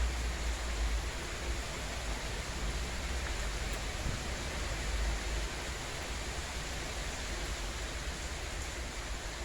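Steady rain, an even hiss with no pattern in it. A low rumble sits under it and drops away about halfway through.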